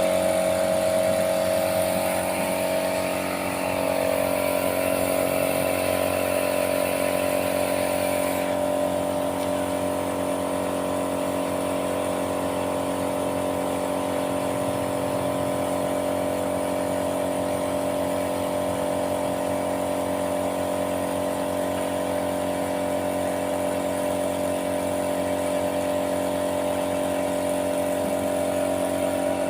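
A machine motor running steadily at a constant pitch, with a hiss in the high range that stops about eight seconds in.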